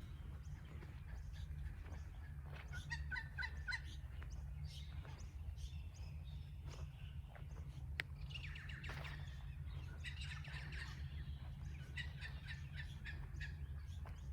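Several birds chirping and calling in short groups of repeated notes, over a steady low hum.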